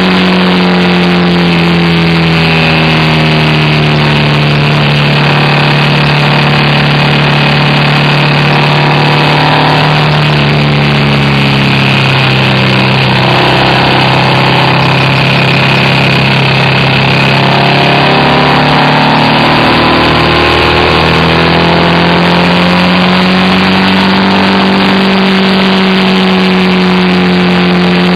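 BMW R1200RT motorcycle's flat-twin boxer engine under way, heard from the bike itself. Its note drops as the rider eases off early on, holds steady at a lower pitch through the bends, then climbs again about two-thirds of the way in as the bike accelerates.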